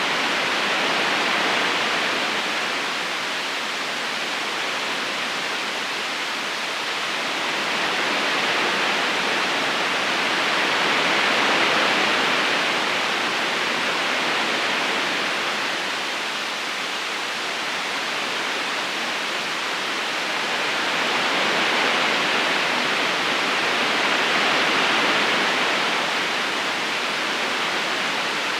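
A river's current flowing: a steady rush of water that slowly swells and eases over several seconds at a time.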